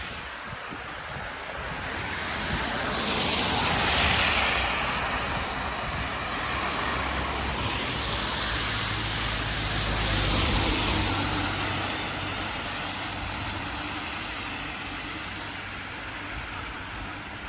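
Road traffic: two vehicles pass one after another, their tyre and engine noise swelling and fading, loudest about four and ten seconds in.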